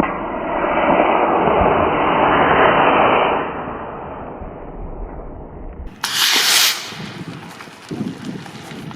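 Model rocket motor igniting with a sudden whoosh, then a loud steady rushing for about three and a half seconds that fades as the rocket climbs away. A brief, loud hissing burst comes about six seconds in.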